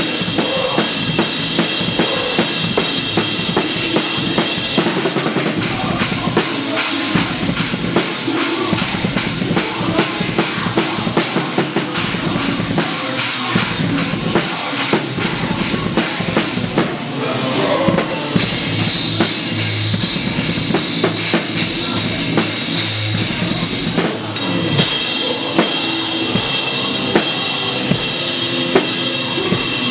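Drum kit played live with a rock band, close-miked so the kick drum, snare and cymbals are loud in front of the band. About five seconds in the drums go into a fast, steady run of even strokes under a wash of cymbals.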